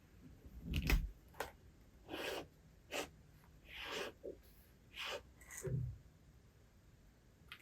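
Paper and a book being handled: about seven short, soft rustles over five seconds, with a dull thump about a second in and another just before six seconds.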